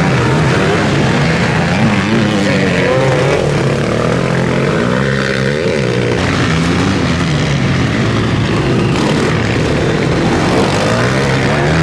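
Several motocross bikes racing: overlapping engine notes rising and falling as the riders rev and shift, a steady, loud din.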